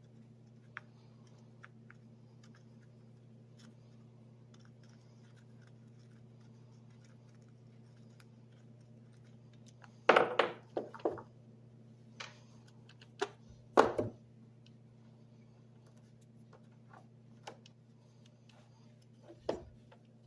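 Scattered sharp clicks and knocks of small hard parts or tools being handled, loudest in a cluster about ten seconds in and another about fourteen seconds in, with a steady low hum underneath.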